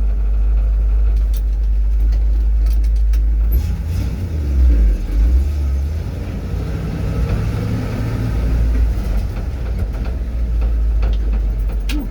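Old truck's engine running with a steady deep rumble. From about three and a half seconds in the engine note shifts, rising and falling as it works.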